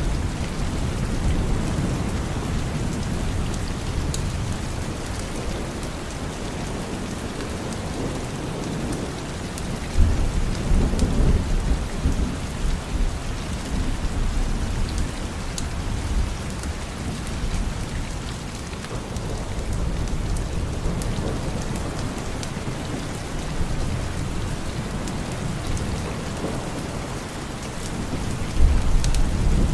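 Steady rain falling, with low rolls of thunder coming in about ten seconds in and again near the end.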